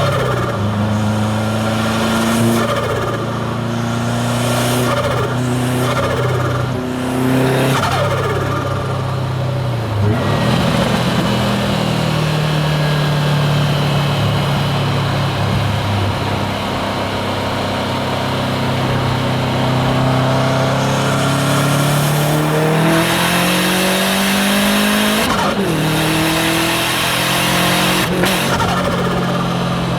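Subaru WRX STI's turbocharged flat-four engine driving hard through the gears, its pitch rising under load and dropping sharply at several gear changes, with bursts of turbo flutter and external wastegate noise at the lift-offs. It settles to a steadier cruise in the middle, then pulls hard again near the end.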